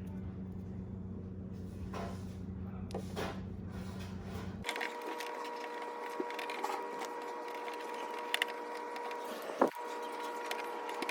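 A steady low hum that cuts off abruptly about four and a half seconds in, followed by a steadier higher-pitched hum, with a few light handling clicks and one sharp knock near the end.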